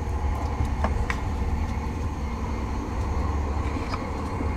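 Steady low rumble of a TGV Duplex high-speed train running, heard from inside the passenger car. A few light clicks come from the lid of the seat-side mini trash bin being opened and handled, about a second in and again near the end.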